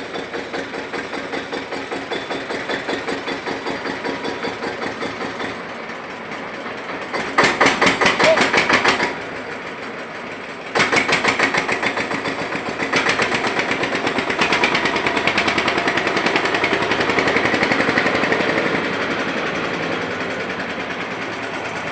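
Eicher tractor's diesel engine running after a forced start from long standing, with an even knock on each firing stroke. It is revved up briefly about seven seconds in and again from about eleven seconds, easing back near the end.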